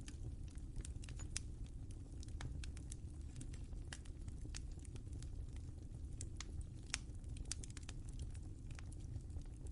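Wood fire crackling in a fireplace: a steady low rumble with many irregular sharp pops and snaps, one louder pop about seven seconds in.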